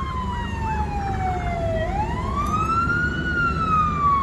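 Emergency vehicle siren wailing: its pitch falls slowly, sweeps back up about two seconds in, then falls again. A steady low rumble runs underneath.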